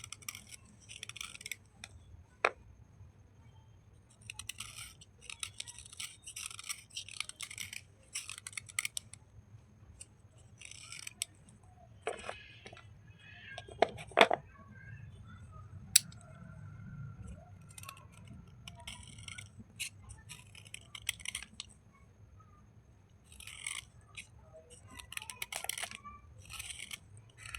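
Wet slate-pencil bars and chips being handled: short bursts of gritty scratching and crunching that come in clusters, with a few sharp clicks in between.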